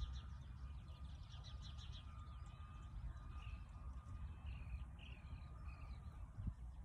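Birds chirping and calling in the background, in short repeated notes, over a steady low outdoor rumble.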